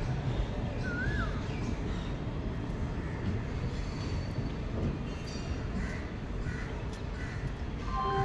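Low, steady rumble of a passenger train's wheels on the rails as its last coach draws away, with birds calling over it.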